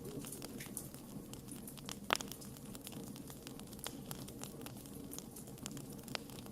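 Wood campfire crackling: a steady low hiss with many small pops and ticks, and one louder snap about two seconds in.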